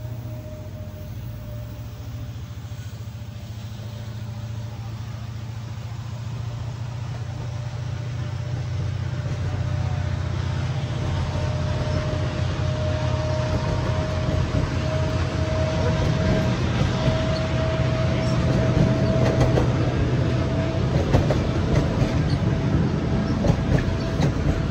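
A train approaching, its low rumble growing steadily louder, with a steady high-pitched whine over it and sharp clicks from the wheels in the later part.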